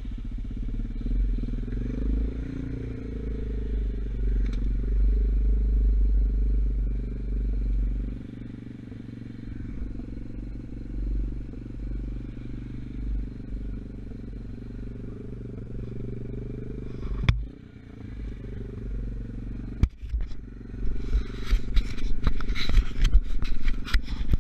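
A 125cc Gunshot dirt bike engine, still being run in, running at a steady, fairly low speed. About 17 seconds in there is a single sharp click, and near the end rough crackling and scraping noise comes in over the engine.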